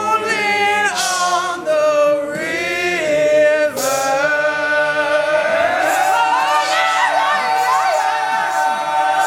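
Male a cappella group singing the final bars of a song, voices only. About halfway through they settle into a long held closing chord while a solo voice ad-libs above it, and the chord cuts off at the end.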